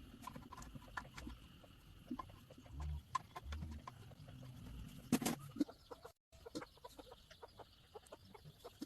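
Faint chickens clucking, with scattered small clicks and knocks and one louder knock about five seconds in. The sound drops out briefly about six seconds in.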